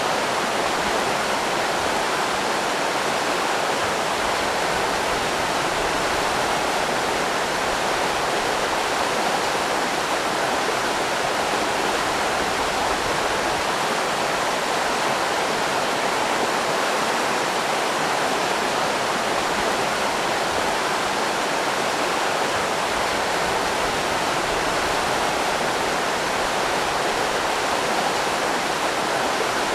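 River rapids rushing in a steady, unbroken flow of white water.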